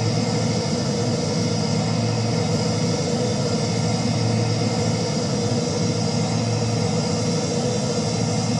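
Airbus A330 jet engines running at a steady, unchanging level: an even rush of noise with a constant low hum underneath.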